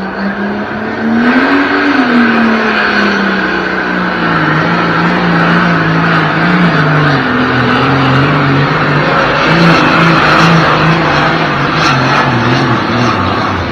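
A John Deere super stock pulling tractor's engine running at full power down the track. Its revs climb over the first two seconds, then sag gradually and in steps as the sled loads it down.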